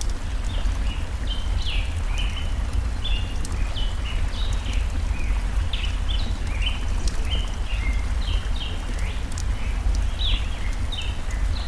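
Birds chirping in quick, repeated short notes throughout, over a steady low rush of a forest stream, with scattered crackles from a campfire.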